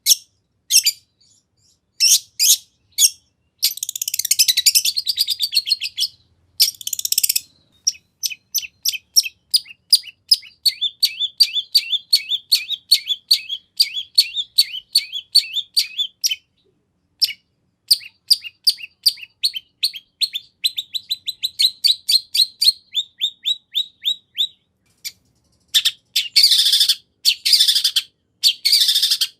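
Long-tailed shrike singing a full song laced with imitations of other birds: long runs of rapid, evenly spaced high chirps, broken by harsh, scratchy bursts near the start and again near the end.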